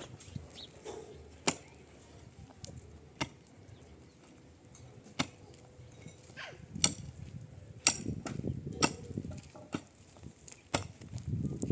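A run of sharp, single knocks, about eight of them at uneven gaps of one to two seconds, like hand tools striking during building work. A low rumble of handling sits under the knocks near the end.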